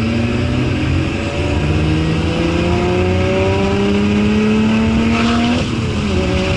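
Lotus Evora 400's supercharged V6 accelerating hard, its note climbing steadily in pitch, with a drop at a gear change about a second and a half in and another near the end.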